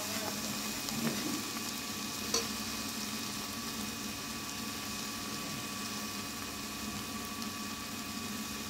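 Ground spice paste frying in oil in a metal kadai, a steady sizzle, as it is stirred with a metal spatula that knocks against the pan about a second in and again near two and a half seconds.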